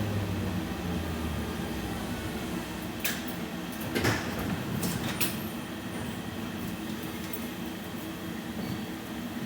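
Inside a BKM 60102 tram: a steady low hum from the car, with a few sharp knocks and clicks between about three and five seconds in, the loudest near four seconds.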